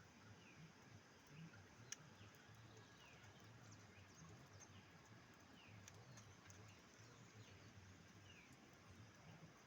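Near silence, with faint short falling chirps from a small animal about once a second and a single sharp click about two seconds in.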